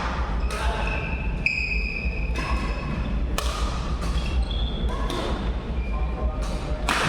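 Badminton rally: rackets striking the shuttlecock about once a second, with shoe squeaks on the court floor between shots and a steady low hum from the hall.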